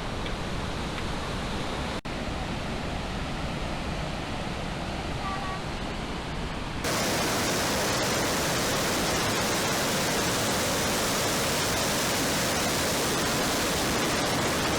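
Steady rushing roar of the Rhine Falls, a large waterfall. About halfway through it turns abruptly louder and hissier.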